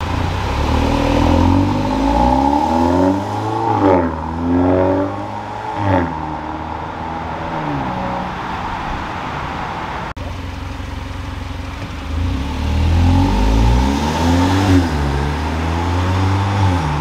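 Hyundai i30 N-Line engine through an Xforce valved cat-back exhaust, accelerating with the exhaust valves open: the revs climb and drop sharply at two quick gear changes, hold steady for a while, then climb again to another shift and rise once more near the end.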